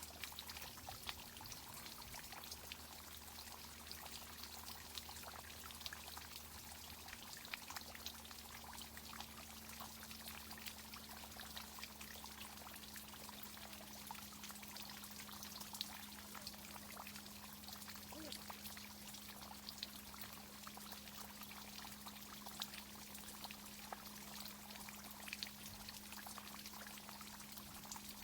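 Water from a tree-watering irrigation system pouring and spattering steadily, with a faint steady hum underneath.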